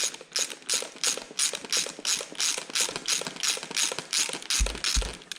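Ratchet wrench clicking in quick, even strokes, about three a second, as a bolt is worked loose. Two dull low thumps come near the end.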